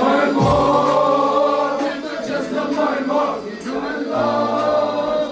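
Many voices singing together in long held notes, a choir-like chant over a steady low note.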